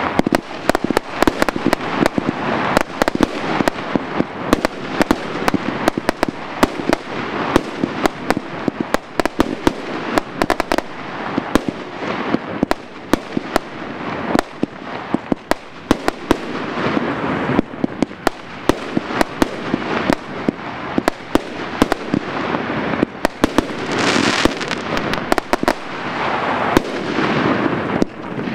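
Aerial fireworks going off in a dense, continuous barrage: sharp bangs several times a second over steady crackling. The crackle swells near the end.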